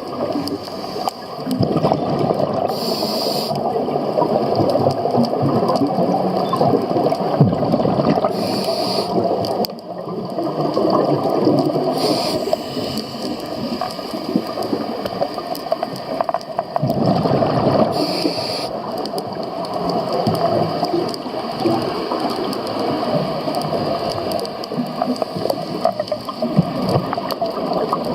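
Scuba diver breathing through a regulator, recorded underwater: a steady crackling, gurgling rush of exhaled bubbles, broken four times by a short hiss of an inhale through the regulator.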